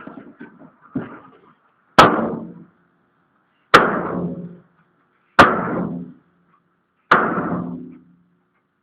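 Four hard metal clangs about a second and a half apart, each ringing off briefly, after a few lighter knocks, from the steel body of a dump truck loaded with mud.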